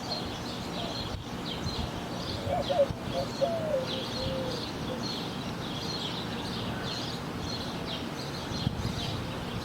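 Small birds chirping, short high calls repeating several times a second over steady outdoor background noise, with a brief faint wavering lower call between about two and four seconds in.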